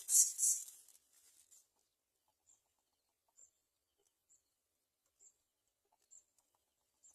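A rhythmic shaker-like music beat fades out within the first second. Then faint, short, high-pitched bird chirps come about once a second.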